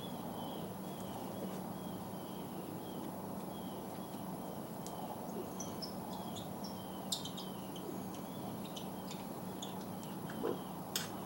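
Outdoor background with short high chirps repeating about twice a second, like a bird or insect calling, over a steady low hum. A few sharp clicks stand out, the loudest about seven seconds in and near the end.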